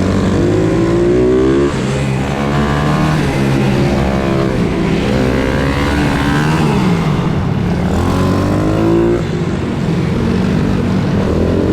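Pit bike engines revving hard, several at once, their pitch repeatedly climbing and dropping as the bikes accelerate, shift and back off.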